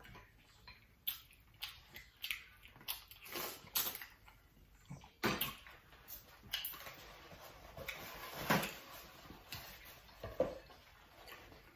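Close-up eating sounds: irregular soft clicks and wet smacks of chewing and handling saucy seafood boil, with a few louder snaps along the way.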